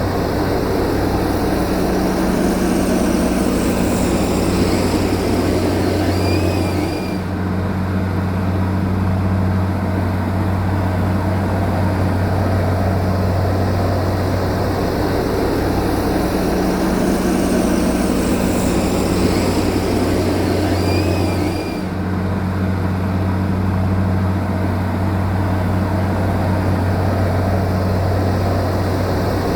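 Heavy earth-moving machine's engine running steadily with a deep hum, dipping briefly about seven seconds in and again about twenty-two seconds in.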